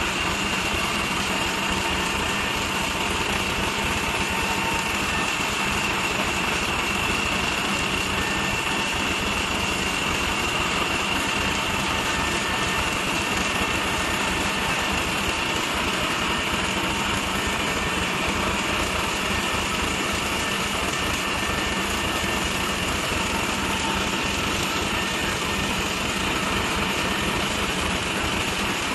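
Excavator-mounted hydraulic rock drill running steadily, with a dense continuous mechanical din that does not let up.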